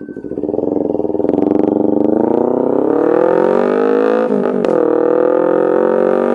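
Kawasaki Ninja 250R's carbureted parallel-twin engine through an aftermarket Austin Racing exhaust, accelerating while riding. The exhaust note rises for about three seconds, breaks and drops briefly at an upshift a little after four seconds in, then holds and climbs slowly again.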